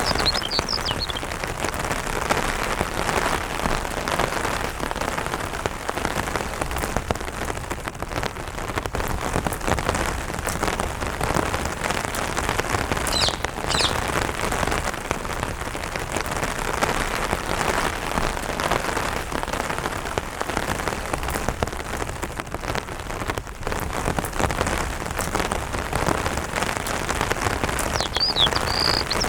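Steady light rain pattering on an umbrella canopy, with brief bird chirps just after the start, about halfway through, and again near the end.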